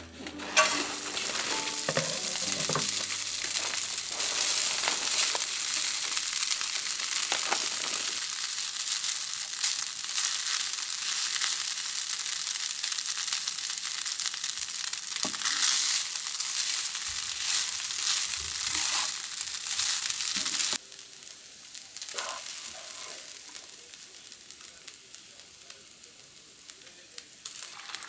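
Kimchi-and-brisket fried rice sizzling loudly in a nonstick frying pan, with occasional taps and scrapes of stirring. About 21 seconds in, the sound drops suddenly to a quieter, steady sizzle of eggs frying in the pan.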